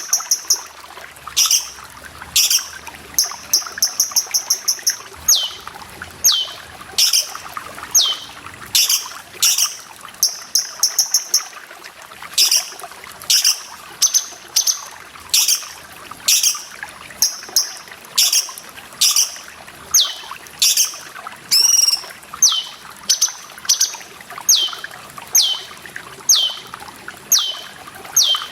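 Cucak cungkok calling over and over in quick succession, mostly short sharp notes that slide down in pitch, with a few fast trills in the first ten seconds, over a steady trickle of running water.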